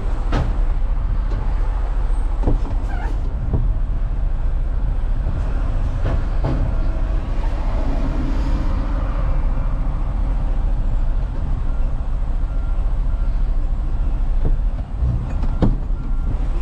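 Semi truck's diesel engine running steadily with a low rumble, with a few short sharp knocks scattered through.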